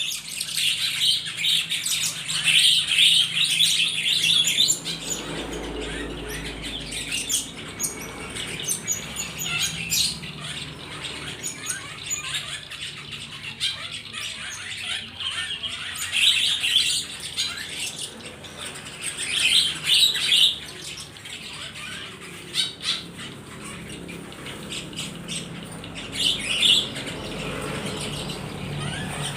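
Many caught wild birds chirping and squawking together in a dense clamour, with louder flurries of calls now and then.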